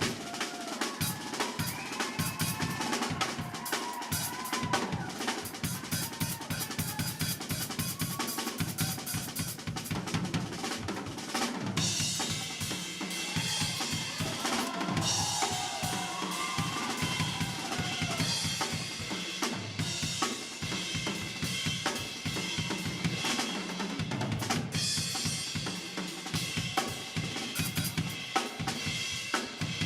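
Drum kit played fast and busily, with snare, bass drum, rimshots and rolls.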